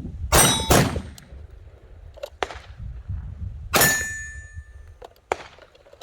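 Handgun shots at a firing range: two loud shots close together right at the start, a third loud shot near four seconds followed by a brief metallic ring, and a few fainter shots in between.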